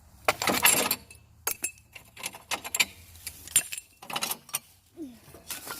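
Glass bottles crashing and clinking: one longer crash of breaking glass about half a second in, then a scatter of sharp clinks and tinkling shards.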